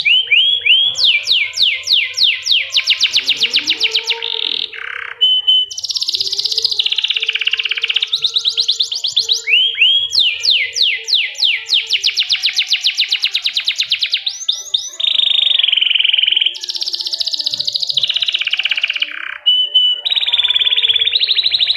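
A domestic canary singing a continuous song of fast trills. Each trill is a quick run of repeated notes, and the bird moves from one trill type to the next with brief pauses between them.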